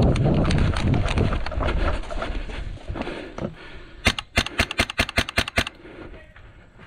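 Heavy rumbling, crackling movement noise on the microphone that fades after about two seconds, then a rapid string of about ten sharp snaps, roughly six a second, lasting a second and a half: shots from an airsoft gun.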